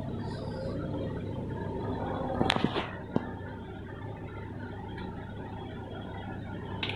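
Small tools and parts being handled on an electronics repair bench: a short clatter of clicks about two and a half seconds in and a single sharp click half a second later, over a steady low hum.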